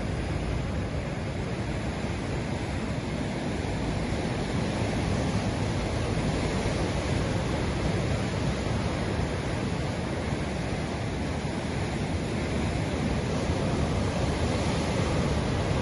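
Ocean surf: a continuous wash of breaking waves that swells gently in loudness now and then.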